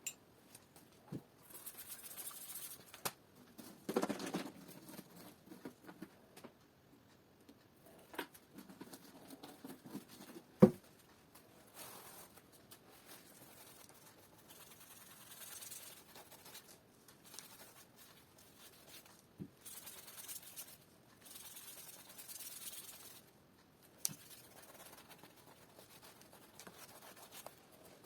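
Handwork noises at a workbench: intermittent scratching and rustling with scattered clicks, and one sharp knock about ten and a half seconds in.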